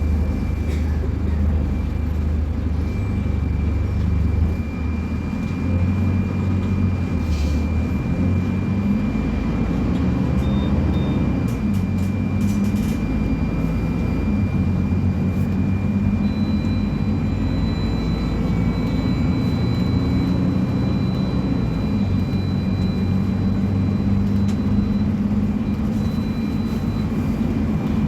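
Scania K250UB bus's diesel engine and ZF Ecolife automatic gearbox running on the move. The engine note shifts up and down in pitch, with a thin steady high whine over it and a few brief clicks and rattles around the middle.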